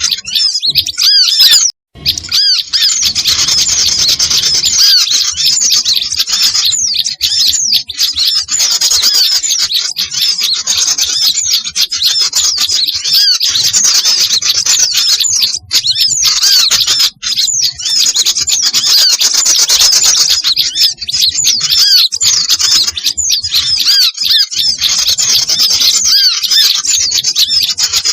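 A lure recording of many small birds calling at once: dense, overlapping rapid high chirps and twitters that never let up, with a brief break about two seconds in.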